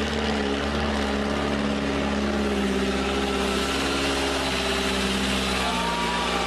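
Heavy truck engine running at a steady pitch, which drops slightly near the end.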